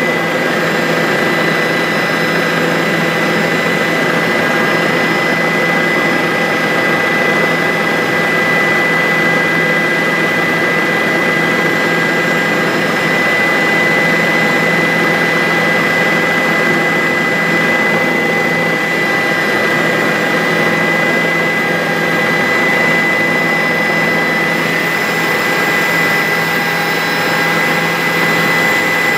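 Bell 407 helicopter in flight: its turboshaft engine and rotors run steadily, with a constant high whine over a dense engine and rotor noise.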